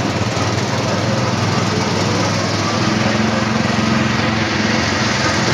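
Small petrol engine of an Autopia ride car running steadily under way, a lawn-mower-like drone heard from on board, its note firming up a little about three seconds in.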